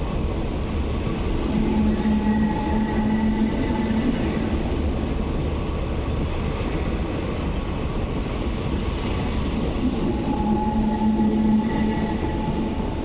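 MTR East Rail Line MLR electric train running past along the platform, a steady rumble of wheels on track. A humming tone rises out of it twice, once about a second and a half in and again near the end.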